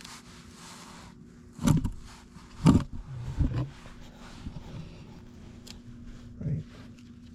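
About four dull knocks, spaced irregularly, over a faint steady hum.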